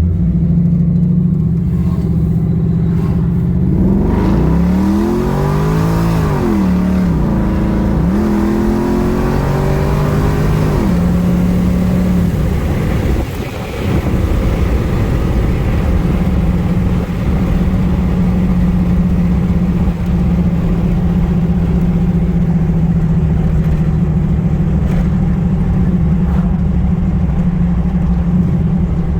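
6.2-litre LS V8 engine running at idle. It is revved up and let fall back twice, about four to eleven seconds in, then settles back to a steady idle.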